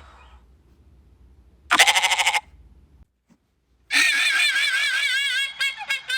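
A short, quavering bleat about two seconds in. After a brief silence, a different animal starts a high warbling call whose pitch wavers quickly, breaking into choppier notes near the end.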